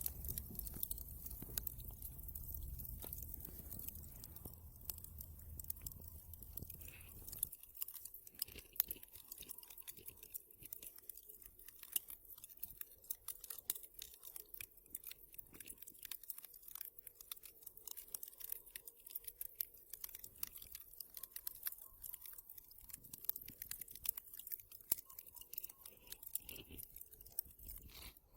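Wood fire burning in a fireplace, crackling with dense, irregular small pops and snaps. A low rumble under the crackle stops about seven seconds in.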